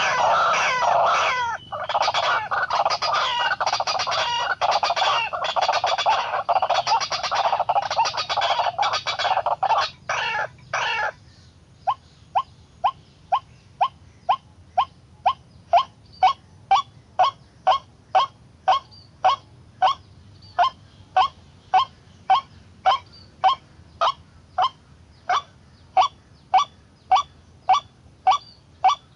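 White-breasted waterhen calling. For about the first ten seconds it gives a dense run of harsh croaking calls. After that comes a steady train of single short 'kwak' notes, about three every two seconds.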